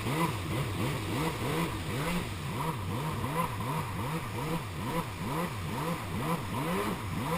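Jet ski engine running, its pitch swinging up and down evenly about twice a second.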